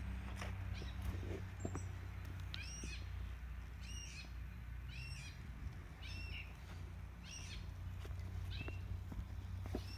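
A bird calling over and over, short arched chirps about once a second, starting a couple of seconds in. A steady low hum and a few faint clicks sit underneath.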